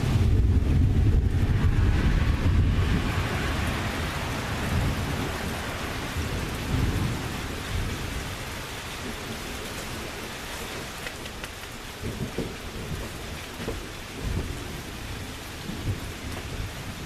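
Thunder rumbling low over the first few seconds and slowly fading, over the steady hiss of heavy rain.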